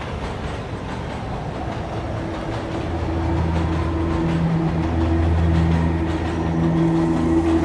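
A vehicle in motion: a steady rumbling ride noise, joined about three seconds in by a low, steady hum of several tones that rises in level.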